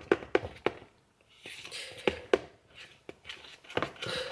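A series of light taps and knocks with short spells of rustling, from kitchen containers and utensils being handled while a protein drink is mixed.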